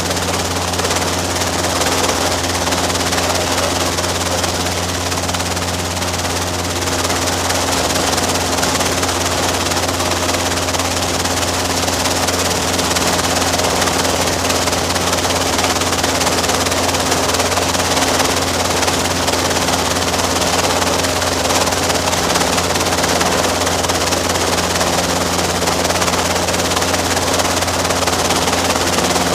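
Robinson R22 helicopter running, a steady, unchanging drone of rotor and piston engine with a low hum under a broad rushing noise, heard from inside the cabin.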